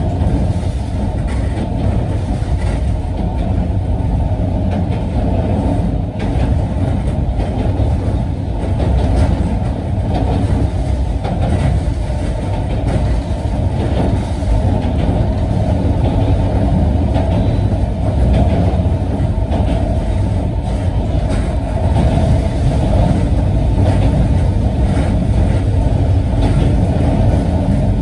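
Sanzen Railway Hokusei Line narrow-gauge (762 mm) electric train running along the track, heard from inside the front car: a steady, loud rumble of wheels on rail.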